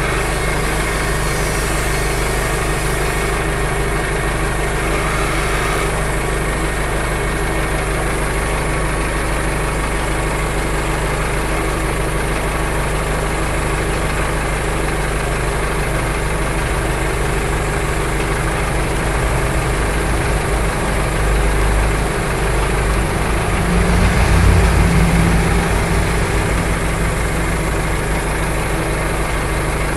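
A steady machine drone with a strong low hum, swelling briefly about twenty-four seconds in.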